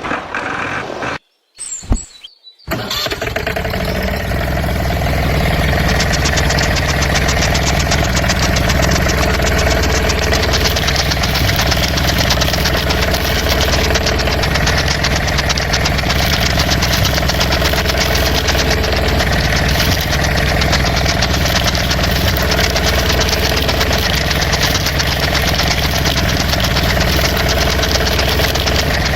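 Tractor engine starting up about three seconds in, then idling steadily with a fast, even knocking pulse.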